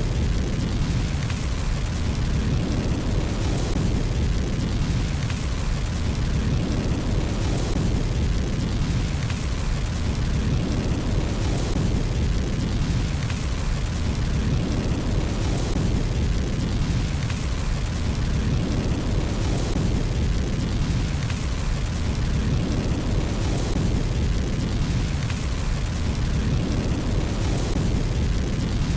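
Fire burning in a fireplace: a steady low rumble with frequent sharp crackles and pops.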